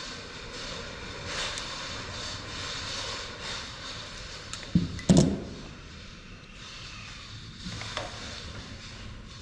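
Knocks and clatter of printer parts being handled and pulled apart, with two sharp knocks about five seconds in and a lighter one near the end, over a steady background hiss.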